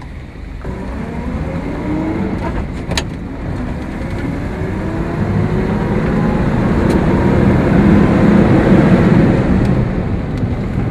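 Cadillac V16 engine accelerating under way, heard from inside the cabin with the convertible top up. Its pitch rises and it grows louder along with the road noise over the first several seconds. There is a single sharp click about three seconds in.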